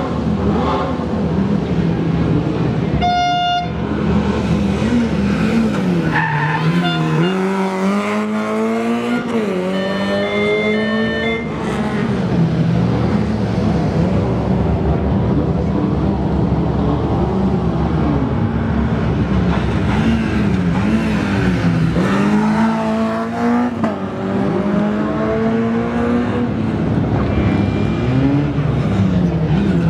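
Rally car engines running hard at high revs, their pitch climbing and dropping repeatedly through gear changes in two spells of acceleration. A short high tone sounds about three seconds in.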